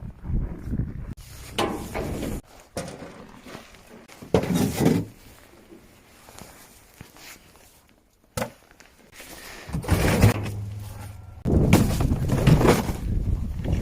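A series of irregular thuds and knocks with rustling in between, with a sharp click about eight seconds in and a longer, louder stretch near the end.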